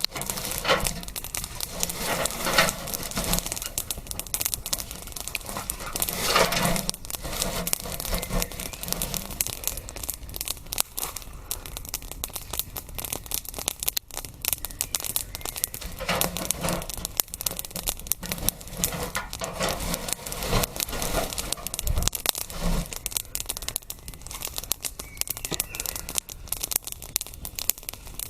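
Wood fire crackling with many small irregular pops and snaps, swelling a little louder now and then.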